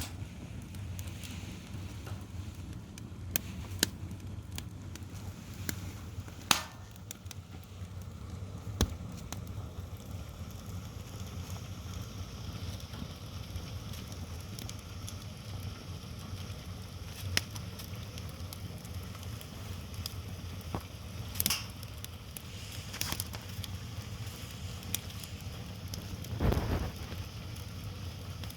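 Firewood burning in an open wood fire, crackling with scattered sharp pops over a steady low rumble. A louder, lower burst of crackle comes near the end.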